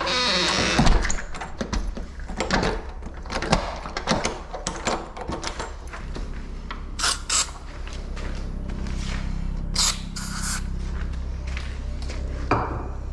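Door lock hardware being handled and fitted: scattered metal clicks, knocks and scrapes. A steady low hum sets in about halfway through.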